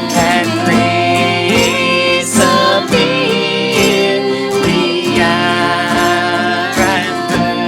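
A praise band playing live music, steady and unbroken, with pitched melody lines that glide up and down.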